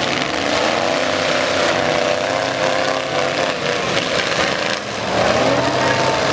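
Demolition-derby truck engines running and revving, their pitch rising and falling, with a dip and then a rise about five seconds in.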